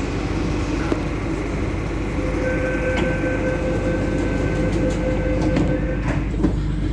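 CNR Changchun-built South Island Line metro train running, heard from inside the car: a steady rumble of wheels and running gear. A steady tone rises over it about two seconds in and stops about a second before the end.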